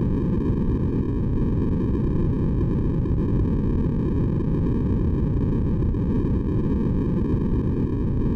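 Steady, unchanging white noise for sleep, deep and low-pitched, with most of its energy in the low range and only a faint hiss higher up.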